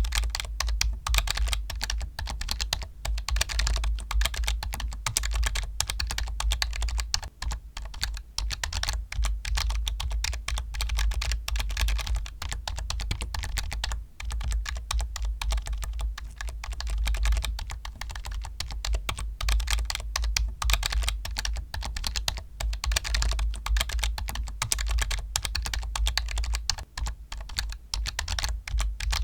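Fast, continuous typing on a computer keyboard: a dense stream of key clicks with a deep low thud under them, broken by short pauses a few times.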